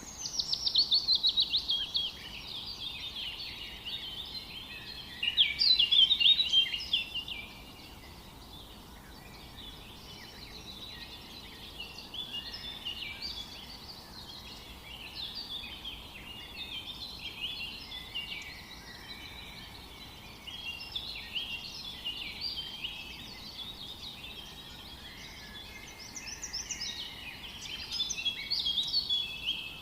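A chorus of wild birds singing together, many overlapping chirps and short trills. It opens with a loud, fast trill of falling notes, with more loud songs about five seconds in and near the end.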